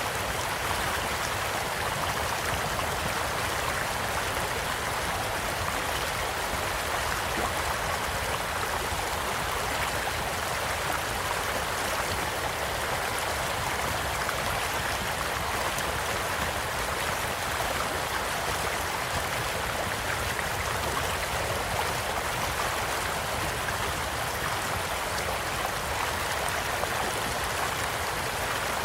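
A shallow stream flowing steadily, its rushing and gurgling water filling the sound, with a campfire crackling lightly in small scattered pops.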